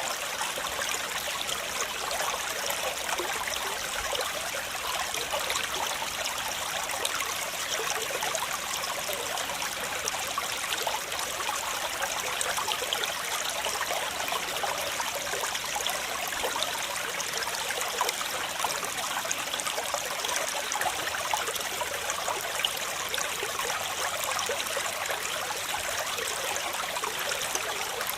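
Waterfall: rushing, splashing water making a steady, even hiss with no letup.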